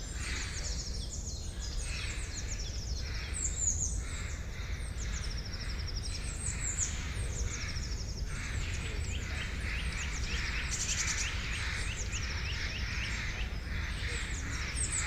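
Forest birds singing, with many high, quick, downward-sweeping chirps overlapping and repeating throughout, over a steady low background rumble.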